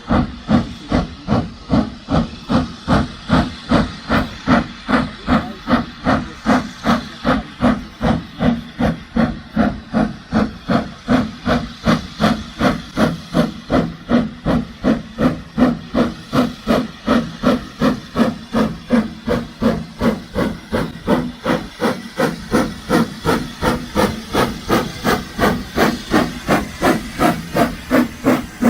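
Steam locomotive working steadily, its exhaust beats chuffing in an even rhythm of about two a second with steam hiss.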